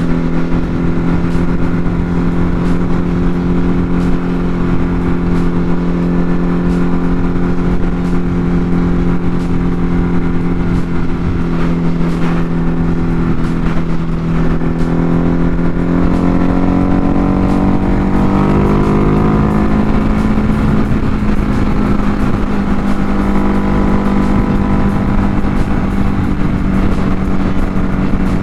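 Ducati Hypermotard 950 RVE's L-twin engine running steadily at highway cruising speed, with wind rushing over the helmet mic. About sixteen seconds in, the engine's pitch rises as the bike speeds up, then holds at the higher note.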